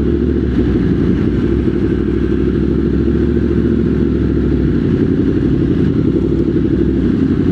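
Motorcycle engine running at steady, low revs, without revving up or down.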